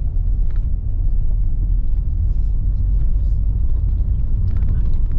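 Steady low road rumble of a car heard from inside the cabin, its tyres running over a dirt road, with a few faint light rattles.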